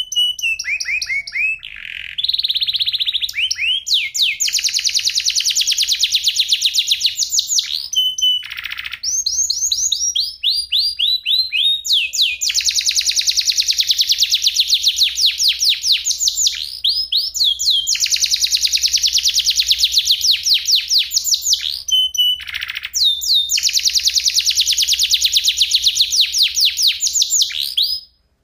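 Domestic canary singing long rolling trills: phrases of very rapidly repeated high notes, some sweeping down in pitch, separated by brief pauses. The song cuts off abruptly near the end.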